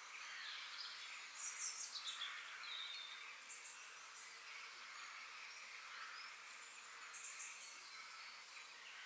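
Forest ambience: songbirds chirping, with a cluster of high chirps and a falling call about one and a half seconds in, and a few shorter chirps later, over a steady faint hiss.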